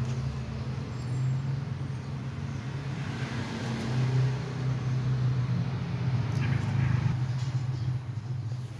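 Steady low engine hum, rising and falling slightly, like a motor vehicle running.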